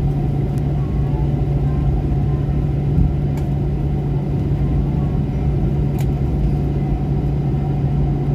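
Steady low rumble with a constant deep hum inside an airliner cabin, as the plane lands or taxis. A couple of faint ticks come through, about three and a half and six seconds in.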